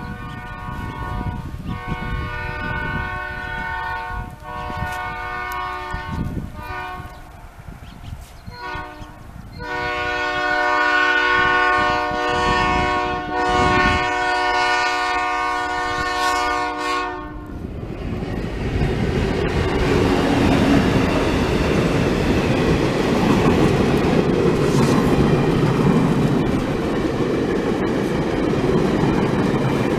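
Locomotive horn sounding in several blasts as the train approaches, ending in one long blast that cuts off about 17 seconds in. The train then rolls past close by: a steady rumble and rush of passenger cars, with the clickety-clack of wheels over the rail joints.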